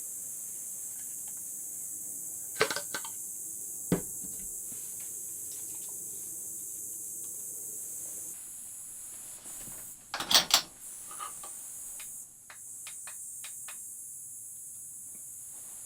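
Scattered clicks and knocks of objects being handled, the loudest cluster about ten seconds in, over a steady high-pitched hiss.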